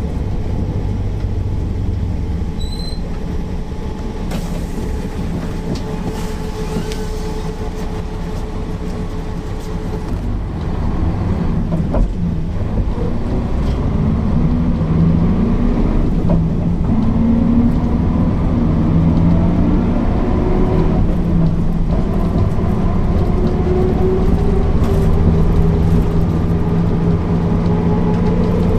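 Mercedes-Benz O408 bus's diesel engine running steadily. About a third of the way in it starts pulling harder and louder, its note climbing in several steps with a drop between them, as the bus accelerates up through the gears. A short click sounds partway through.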